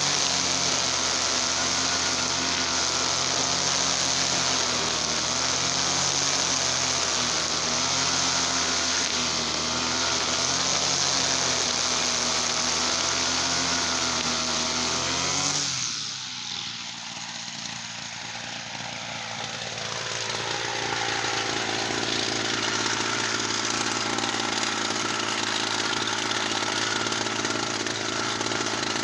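Gasoline TL33 two-stroke brush cutter engine running at high speed. About halfway through it drops off sharply, as if the throttle is let go, then picks up again over a few seconds and runs steadily.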